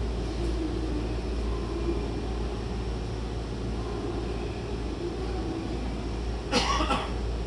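Early-series Toei 10-300 subway train with Mitsubishi IGBT-VVVF traction equipment running, heard from inside the car: a steady low rumble with faint motor tones. A short loud rattle sounds about six and a half seconds in.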